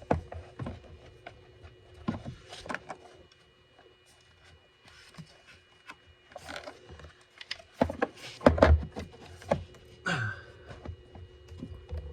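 Scattered knocks, clicks and light scrapes of hand-handled car parts being fitted back into the Audi A6's ECU compartment, with the loudest cluster of knocks a little past the middle.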